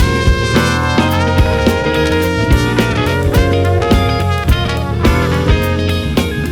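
Live jazz-funk band playing an instrumental passage, with drum kit, bass and guitar and held instrument lines over a steady beat.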